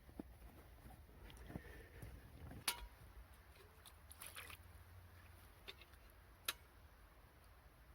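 Near silence with faint rustling and a few light handling noises, including two sharp clicks, the louder one about a third of the way in.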